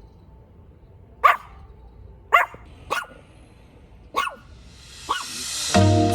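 A dog barking, five short single barks at uneven intervals of about half a second to a second. Near the end a rising whoosh leads into music.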